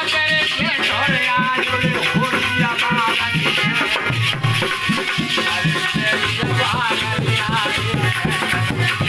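Instrumental passage of Indian folk stage music: a steady hand-drum rhythm with a rattle shaking along and a gliding melody on top.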